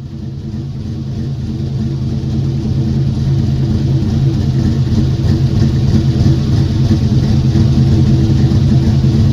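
Car engine running steadily with a low, even hum, fading in and growing louder over the first few seconds.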